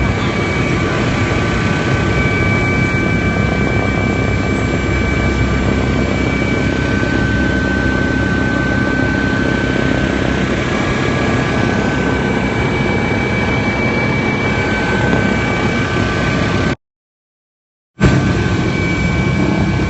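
Helicopter turbine and rotor noise heard from inside the cabin: a steady loud rumble with a thin steady turbine whine on top. The sound cuts out completely for about a second near the end, then returns.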